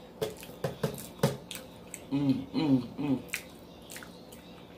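Close-miked chewing of waffle, with wet mouth clicks and smacks throughout. Two short closed-mouth hums come about two seconds in.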